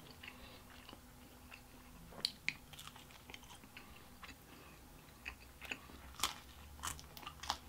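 Close-miked chewing and biting of crisp pizza crust: soft mouth sounds broken by scattered sharp crunches.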